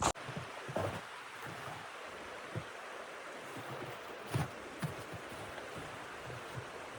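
Steady wind hiss of a blizzard, with a few soft knocks and taps scattered through it.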